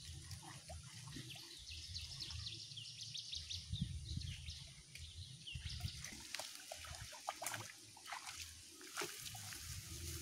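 Birds chirping in a quick run of short calls for a couple of seconds, over a steady low rumble, with scattered sharp clicks and crackles in the second half.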